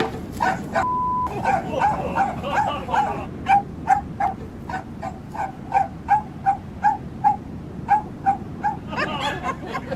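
A dog barking, at first unevenly and then in a fast, even run of about three barks a second.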